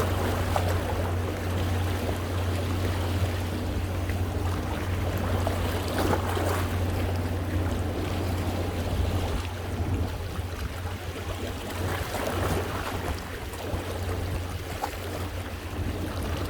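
Sea waves washing over coastal rocks, a continuous rush of water that surges every few seconds, most strongly about six seconds in. A steady low hum runs underneath.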